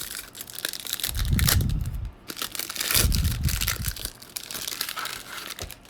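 Foil wrapper of a 2021 Bowman baseball card pack being torn open and crinkled by hand, a dense crackle of small clicks, with two louder dull bumps of handling about a second and three seconds in.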